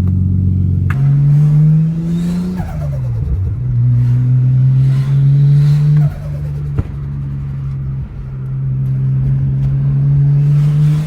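Nissan R33 Skyline's turbocharged straight-six pulling hard, its revs climbing and then dropping off at lift-off about two and a half, six and eight seconds in. Each drop carries turbo flutter: compressor surge from a setup with no blow-off valve, a front-mount intercooler and a short aluminium intake pipe.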